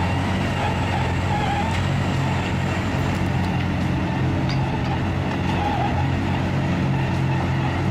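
Heavy diesel machinery running steadily, with a high whine that wavers up and down.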